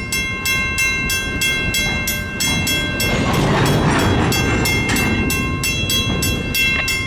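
Railway grade-crossing warning bell ringing in rapid, even strikes over the low rumble of a train.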